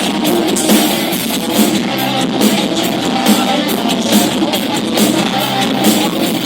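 Rock band playing live, heard through an audience recording: electric guitar, bass and drums with some singing, loud and steady with a regular drumbeat.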